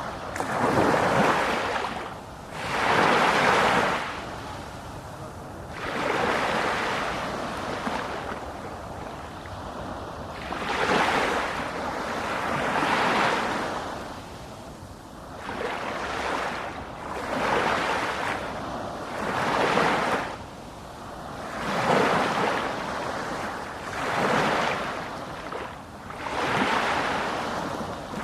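Ocean surf: waves breaking and washing in, the rush swelling and fading every two to three seconds.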